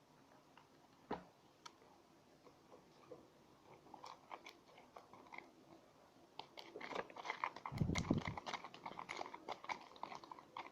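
Glue slime being stirred and worked with a spoon in a bowl as the detergent activator takes hold, with sticky squelching and clicking. It starts sparse and gets busier and louder from about two-thirds of the way in.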